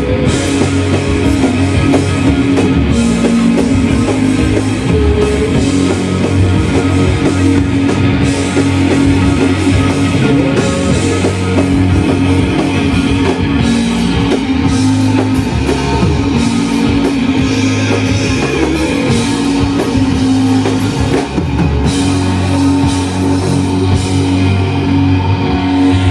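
Loud live shoegaze rock band playing: dense, sustained distorted electric guitars over bass and a drum kit.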